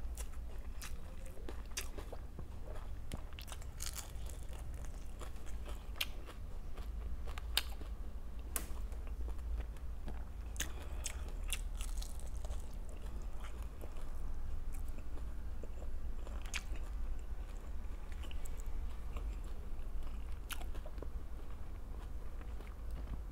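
Close-miked eating: chewing with crisp crunching bites of fried food, many short sharp crackles scattered throughout, over a steady low hum.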